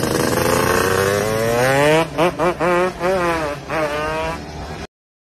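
Motorcycle engine revving: the pitch climbs steadily for about two seconds, then the throttle is blipped several times in quick succession, and the sound cuts off abruptly near the end.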